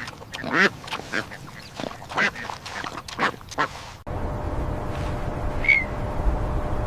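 A piglet giving a rapid run of short squealing calls for about four seconds. At about four seconds the sound cuts suddenly to a steady low rumbling noise, with one brief high chirp near the end.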